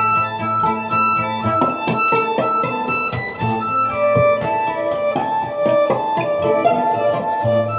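Violin and acoustic guitar playing an improvised duet: the violin holds long bowed notes while the guitar plucks a busy run of notes, thickest from about a second and a half in.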